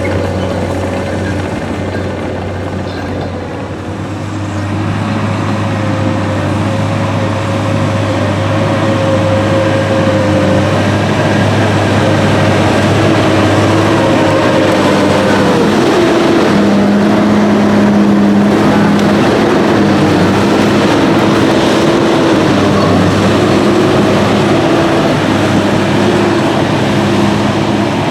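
Heavy diesel machinery running steadily under load, getting louder about five seconds in, with its engine note shifting in pitch partway through.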